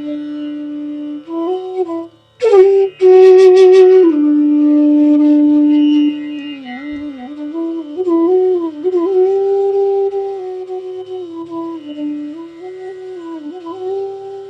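Bansuri, the North Indian bamboo flute, playing a slow raga melody of long held notes with vibrato and gliding ornaments. About two seconds in there is a brief breath pause, followed by a loud, bright note. A low steady drone sounds beneath.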